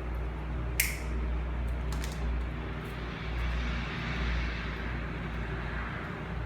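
A steady low machine hum runs under hand-tool work. There is a sharp click about a second in and a couple of lighter clicks near two seconds, then a hiss that swells and fades in the middle.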